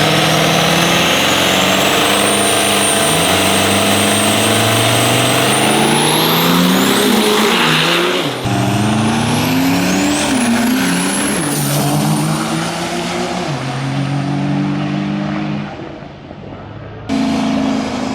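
Turbocharged diesel race truck engine at full throttle. Its pitch climbs and falls back in steps several times as it shifts through the gears, with a high whistle rising above it. The sound breaks off abruptly twice, about eight and seventeen seconds in.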